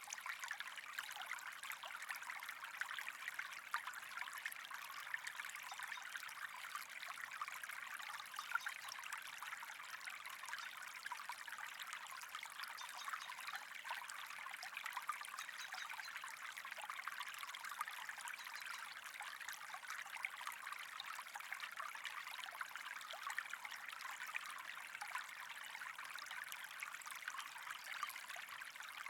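Steady running, trickling water with a fine crackle.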